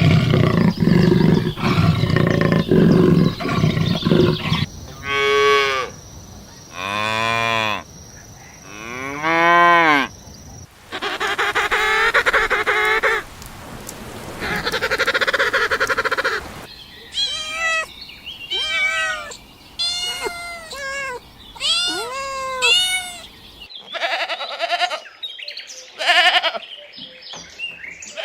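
A run of different farm-animal calls one after another, among them cattle mooing: three long calls, each rising and falling in pitch. After them come noisier calls and then a quick series of short, higher calls.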